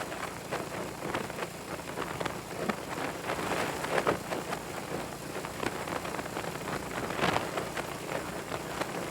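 Wind rushing and buffeting over the microphone of a moving motorcycle, in uneven gusts, with the bike's engine running faintly underneath.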